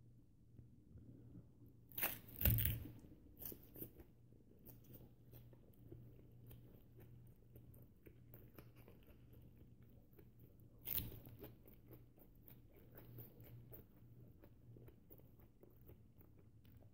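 A person chewing a mouthful of unpeeled banana, peel and all: close, wet chewing and small crunches throughout, with two louder crunches, one about two seconds in and one a little past the middle.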